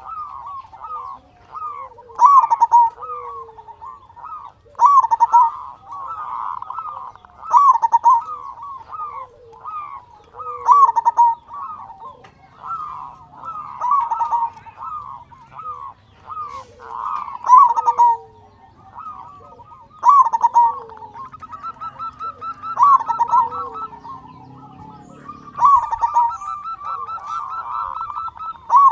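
Zebra dove (perkutut) cooing, its rolling song phrase repeated about every two and a half to three seconds.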